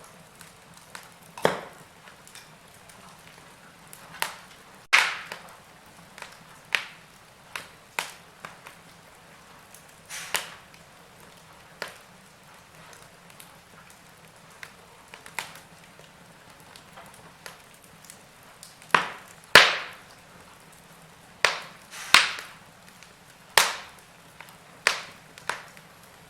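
Wood fire crackling in a fireplace: irregular sharp pops and snaps over a faint steady hiss, with a cluster of louder pops in the second half.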